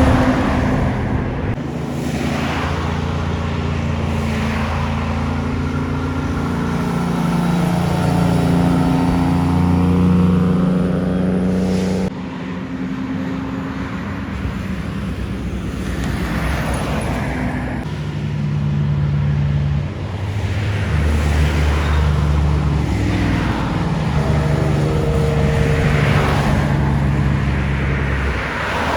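Heavy trucks passing one after another on a highway hill, their diesel engines running with an engine note that steps up and down in pitch several times. The sound cuts off abruptly about twelve seconds in and again near twenty seconds, with another truck's engine then heard.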